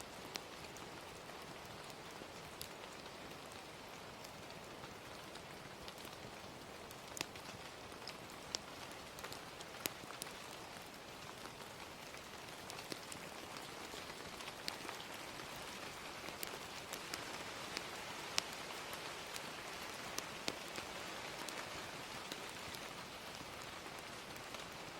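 Steady gentle rain with a crackling fire: an even hiss of rainfall, dotted with scattered sharp pops and snaps from the fire.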